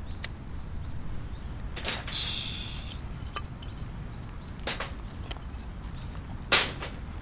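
A fire being lit with a lighter and a bunka takitsuke fire starter: a sharp click, a short hiss about two seconds in, then a few knocks as the kindling is handled, the loudest near the end.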